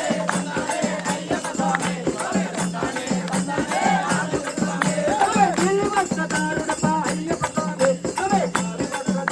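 A group singing an Ayyappa devotional bhajan to a steady beat, with rattling hand percussion struck throughout.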